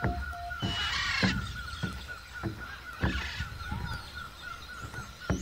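Repeated thuds of a tool striking and digging into hard, dry ground, a little under two blows a second, with rasping scrapes of loosened soil about a second in and again about three seconds in. Birds call in the background.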